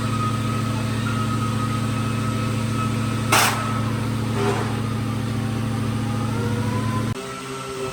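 A workshop machine's motor running with a steady hum and a faint whine, cutting off suddenly about seven seconds in; a brief sharp hiss sounds about three seconds in.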